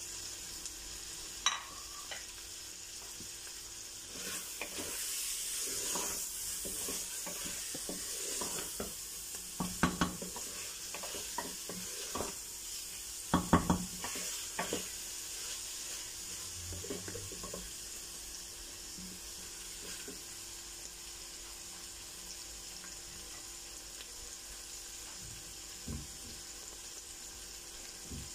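Minced meat and potato pieces sizzling as they are bhuna-fried in a pressure-cooker pot, with a wooden spatula scraping and knocking against the metal as they are stirred. The loudest knocks come about ten seconds in and again around fourteen seconds.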